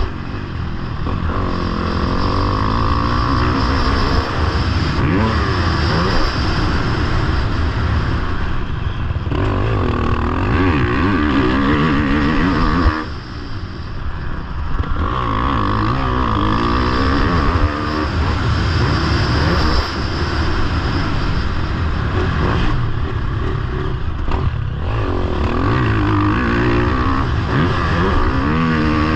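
Motocross bike engine being ridden hard, its pitch rising and falling over and over as the rider works the throttle. About thirteen seconds in, the throttle is briefly cut and the engine drops off before picking up again.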